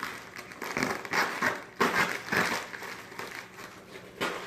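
Parcel packaging being handled and torn open, with irregular crinkling and rustling, busiest in the first half, and a sharp scrape near the end.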